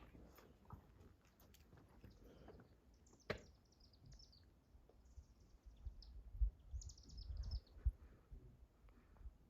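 A small songbird singing three short, high phrases of quick notes that fall in pitch. Wind rumbles on the microphone in the second half, and there is a single sharp tap about three seconds in.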